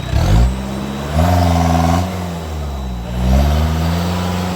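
Off-road vehicle's engine revving in repeated surges, its pitch climbing and dropping about three times as the throttle is opened and eased.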